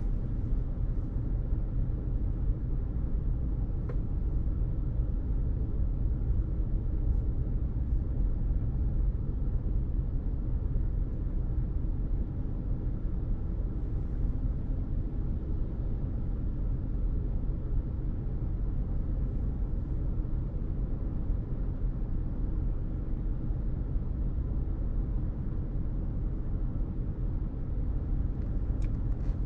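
Steady low rumble of road traffic, with no sound standing out above it.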